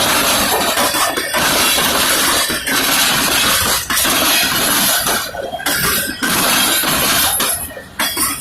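Norfolk Southern freight train's cars rolling past at speed, steel wheels on the rails giving a loud, continuous clatter with metallic clinks. The noise dips briefly twice, about five and a half seconds in and near the end.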